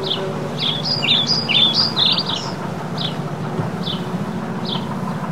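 A songbird singing short down-slurred notes about once a second, with a quick run of varied notes from about one to two and a half seconds in. Under it runs the steady low hum of a JCB Fastrac tractor's engine working at a distance.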